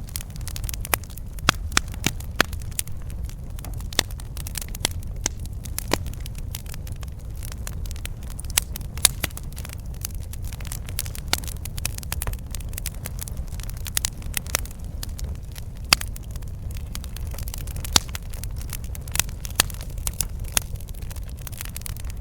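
Campfire crackling: burning wood giving irregular sharp pops and snaps, several a second, over a steady low rumble.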